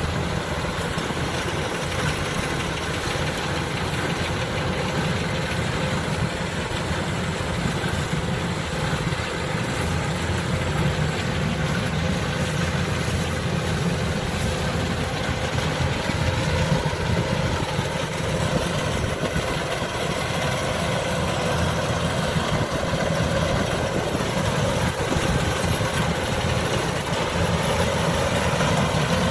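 Kubota DC-105X combine harvester running steadily, its engine and machinery making an even, continuous drone.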